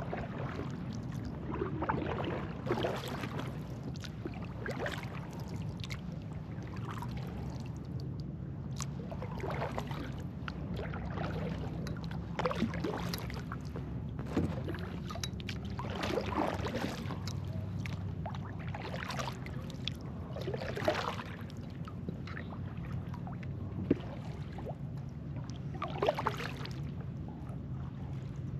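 Kayak paddle strokes in calm water: a soft splash and drip from the blade about every two seconds, over a steady low hum.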